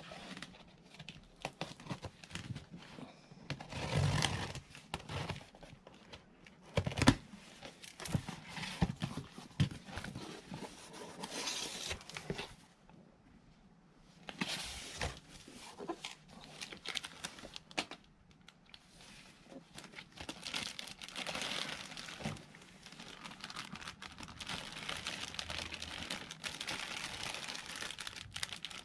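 Handling noises: crinkling and rustling with irregular clicks and knocks, pausing briefly about halfway through.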